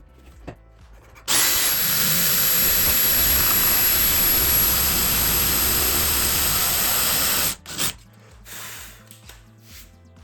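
A power tool runs with a steady high whine for about six seconds, switching on suddenly and cutting off abruptly, with a short burst just after. Quiet background music underneath.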